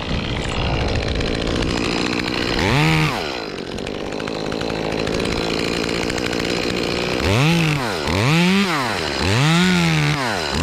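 Two-stroke chainsaw running and cutting, revving up and dropping back once about three seconds in. Near the end it gives four quick throttle blips, its pitch rising and falling each time.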